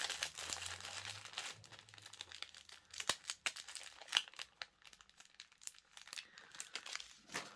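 Small plastic bags of diamond-painting drills crinkling as they are handled. The crinkling is dense for the first couple of seconds, then thins out into scattered crinkles and light clicks.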